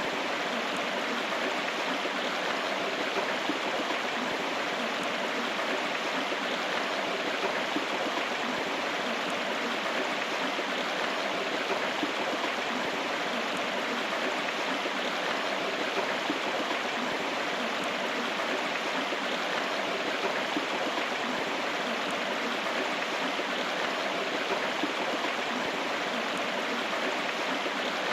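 River water flowing over rocks, a steady rushing babble with no change.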